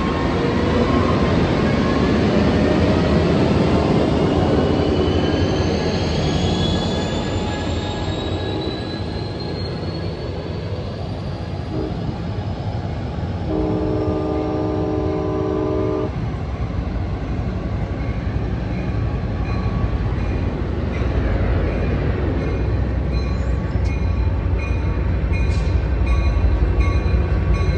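Amtrak passenger train running close by with a rising whine, then a locomotive horn sounds one steady blast of about two and a half seconds midway. Toward the end an approaching locomotive's bell rings repeatedly over a building low engine rumble.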